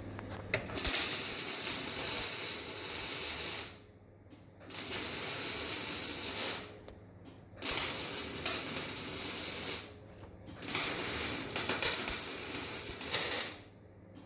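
Electric arc welder laying weld on steel: four runs of crackling, sizzling arc noise, each about two to three seconds long, with short pauses between them.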